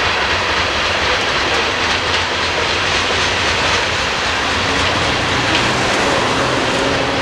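Loaded coal hopper cars of a Union Pacific unit coal train rolling past on the climb up Logan Hill: a steady rumble of steel wheels on rail, with a faint low hum underneath.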